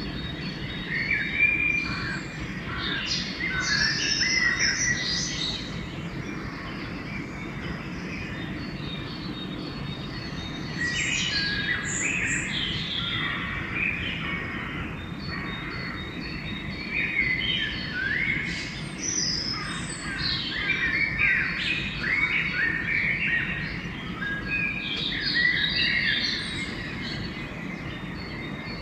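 Dawn chorus: several songbirds singing and calling over one another in quick chirps and trills, thinning out briefly about a quarter of the way in, over a steady low background noise.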